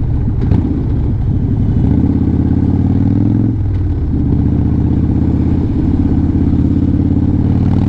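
Harley-Davidson motorcycle's V-twin engine running steadily while riding, with a short break in the engine note about three and a half seconds in.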